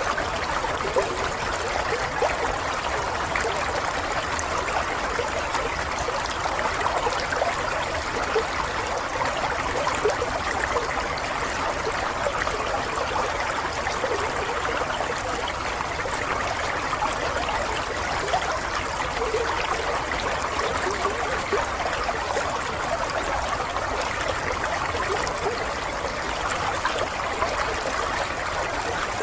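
Running water: a steady, continuous flow of a stream, with small splashes flickering through it.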